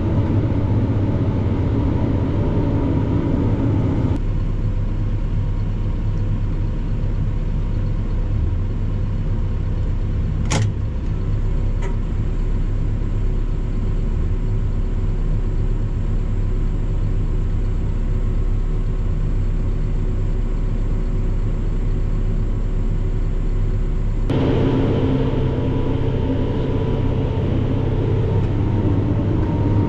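Farm tractor's diesel engine running steadily, a continuous drone. The sound changes abruptly about four seconds in and again near the end, and there is a single sharp click about ten seconds in.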